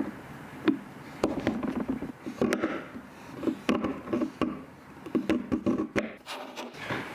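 Irregular light knocks, taps and clatter of small objects being handled, in quick clusters throughout.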